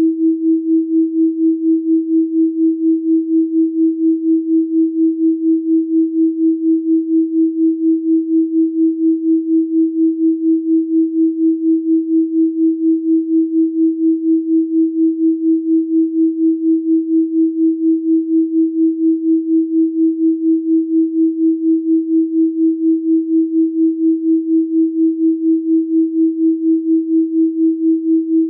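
A steady 324 Hz pure sine tone, held without change, its loudness pulsing evenly a few times a second.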